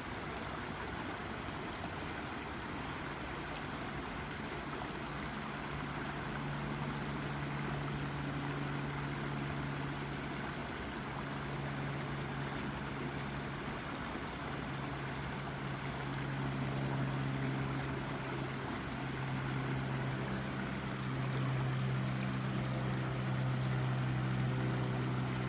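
Brook water babbling and trickling over rocks in a steady rush. A low, steady, pitched drone rises in under it a few seconds in and grows louder toward the end.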